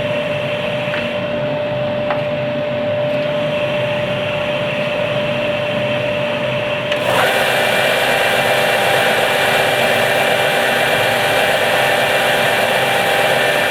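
A dust extractor and a Ryobi RBDS4601G belt and disc sander running, a steady motor drone with a thin whine. About seven seconds in, the sound jumps louder and hissier, with new whining tones added.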